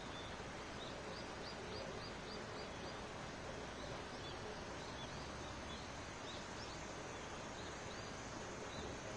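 Forest dawn chorus: small birds giving short, high chirps in quick runs, about three a second, over a steady background hiss.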